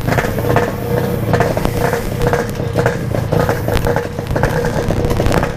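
Yamaha RX-King's 135 cc two-stroke single-cylinder engine running through its exhaust, a steady note broken by many short crackles.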